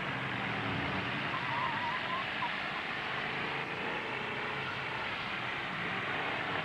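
Demolition-derby pickup truck engines running under a steady wash of arena noise.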